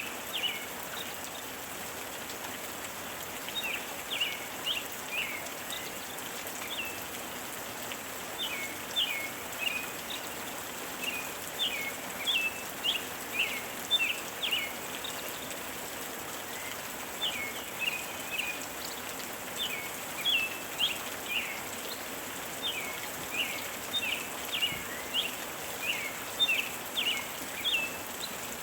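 Steady gentle rain, with a bird chirping over it in runs of short, quick, high chirps broken by brief pauses.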